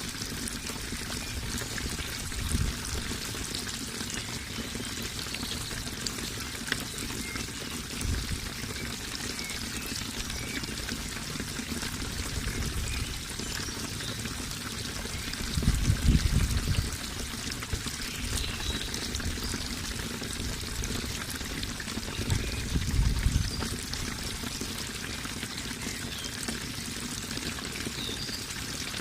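Running water, a steady rushing and trickling flow, with a few brief deeper surges, the strongest about halfway through and again about three-quarters through.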